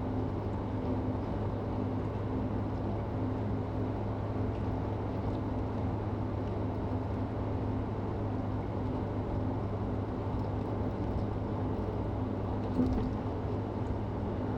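Steady in-cabin driving noise from a car cruising on a highway: a constant low engine and drivetrain hum under tyre and road noise, with one small bump near the end.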